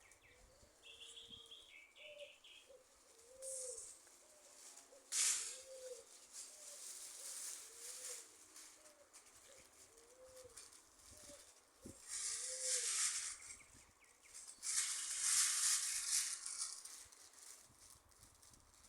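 A dove cooing, repeating a short rising-and-falling note about once a second for most of the first twelve seconds. Several louder bursts of hissy rustling noise come over it, one about five seconds in and two longer ones later.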